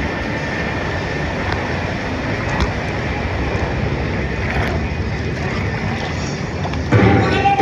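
Rushing whitewater from a wave-driven river ride, with wind on the microphone, steady throughout and with a sudden louder surge near the end.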